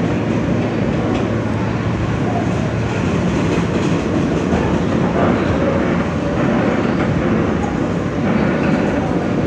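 Inside an R160 subway car in motion: steady rumble and rattle of the car running on the rails between stations.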